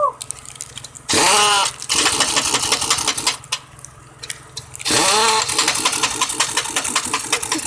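Pneumatic impact wrench working truck wheel lug nuts: two short bursts, about a second in and about five seconds in, each with a whine that rises and falls, amid rapid hammering clicks.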